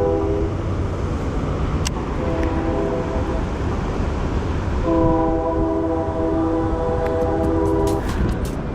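A train horn sounding a chord of several notes in blasts: one ending about half a second in, a short one a couple of seconds in, then a long one of about three seconds. Under it runs a steady low noise, with a few clicks near the end.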